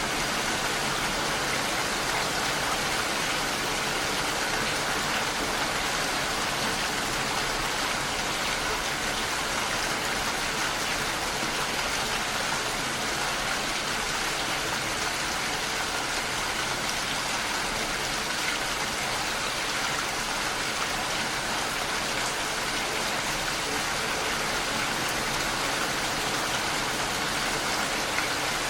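Heavy rain falling on a window, a steady dense patter with no change in strength.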